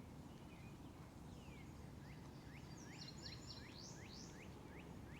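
Faint bird chirping: a run of short rising chirps, a few a second, starting about one and a half seconds in, over quiet background hiss.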